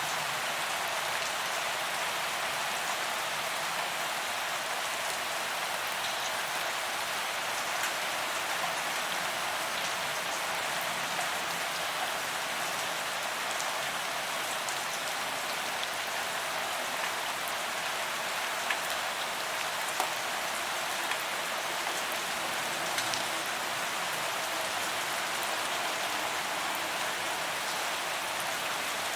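Steady rain falling on a paved walkway, an even hiss with individual drops ticking through it and a few slightly louder drop hits now and then.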